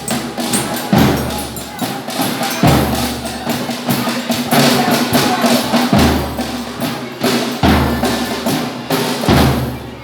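Folia de Reis ensemble playing: a deep drum struck about every second and a half, with busy rattling percussion and instruments over it.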